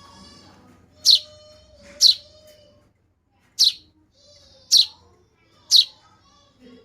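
Baby birds chirping: five loud, short, high chirps that fall in pitch, about one a second, with fainter buzzy calls in between.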